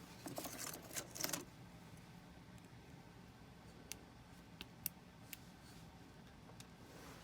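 Small metal tools and parts clinking at a jeweller's bench: a short burst of scraping, rattling clinks near the start, then a few single sharp clicks spaced over the following seconds.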